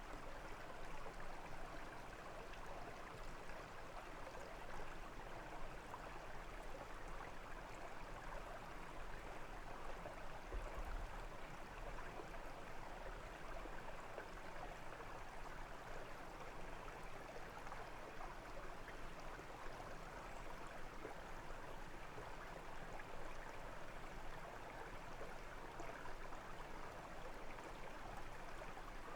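Small brook babbling and trickling over stones, a steady even rush of flowing water.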